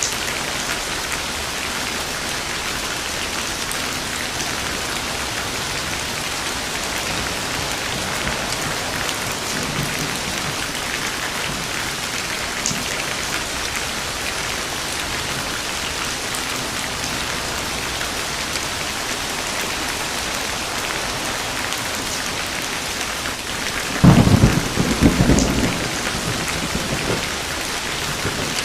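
Steady heavy rain falling, with one sudden loud crack and rumble of thunder lasting a couple of seconds near the end.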